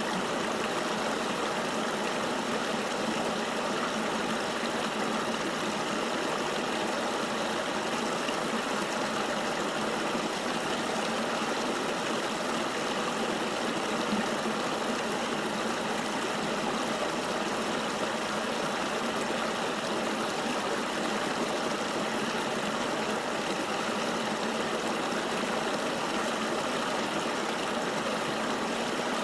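A river flowing steadily, with an even rushing of water and no separate events.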